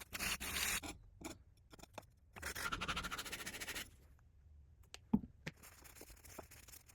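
Rough scraping against a hard surface in two long strokes, followed by fainter rubbing and a few light taps.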